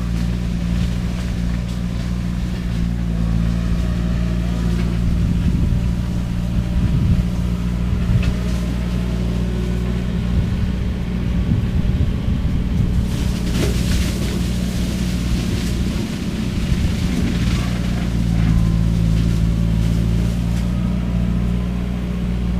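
Skid steer engine running hard under load while its shredder head chews through cane. Through the middle the engine note wavers and bouts of crackling and crunching from the shredded cane come through, then it settles back to a steady drone.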